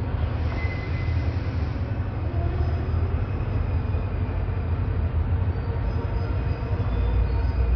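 Diesel locomotive running, a steady low rumble with train noise and no break.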